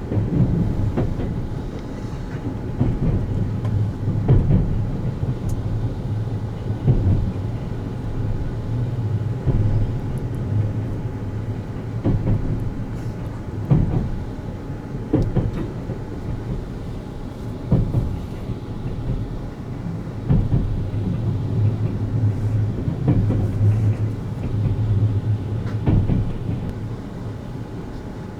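Sleeper train of the 285-series Sunrise Express running at speed: a steady low rumble of wheels on rail with a sharp knock from the rail joints every couple of seconds.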